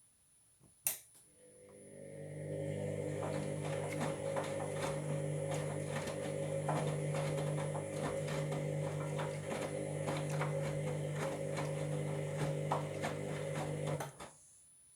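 Washing machine motor turning the drum in a wash tumble: a steady motor hum with many rapid rattling clicks. It builds up after a click about a second in and stops abruptly near the end. The noise is typical of what the owner takes for worn drum bearings.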